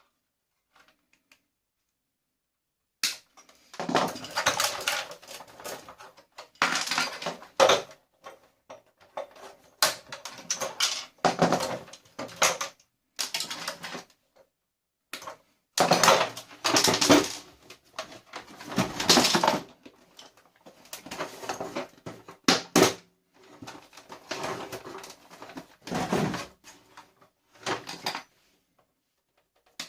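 Plastic and metal parts of a vacuum cleaner being handled and pulled apart for scrap: irregular clattering, clicking and scraping in bursts of one to three seconds, with short silent gaps between them.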